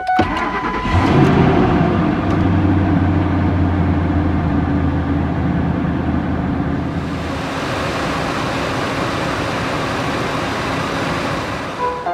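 Ford 5.4L Triton V8 starting with a brief rise in revs, then settling to a steady idle after the A/C compressor replacement. About seven seconds in, a broad hiss grows over the engine sound.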